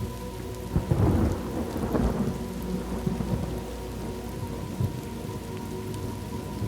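Thunderstorm ambience: steady rain, with a thunderclap about a second in that rumbles on for a couple of seconds before the rain carries on alone.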